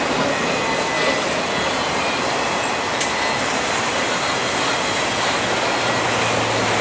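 Empty autorack freight cars rolling past on steel wheels, a steady loud rumble and rattle. A faint high wheel squeal fades out about three seconds in, with a single sharp click at about the same point.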